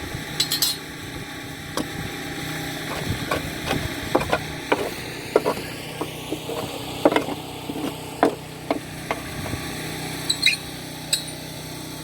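Hand tools working on a riding mower's steel deck: irregular clinks, taps and scrapes of metal on metal, over a steady low hum.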